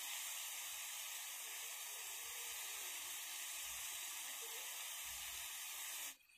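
Onion-and-spice masala sizzling steadily in a hot iron kadai; the hiss cuts off abruptly near the end.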